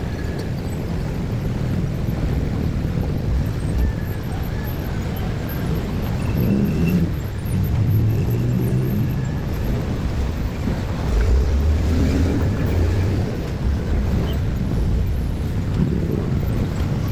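Motor vehicle engines running as traffic passes, a steady low rumble with engine notes that swell and fade several times.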